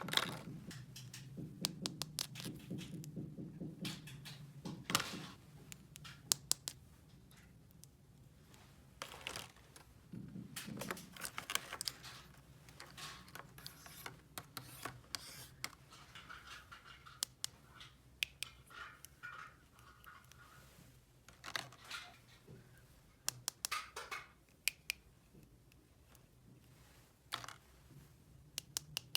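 Small plastic toy pieces being handled, with irregular sharp clicks and taps and light scraping.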